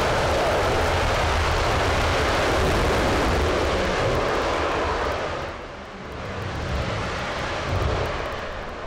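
RS-25 liquid-hydrogen/liquid-oxygen rocket engine firing on a test stand, a loud steady roar that falls away sharply about five seconds in as the engine shuts down, followed by two brief low rumbles.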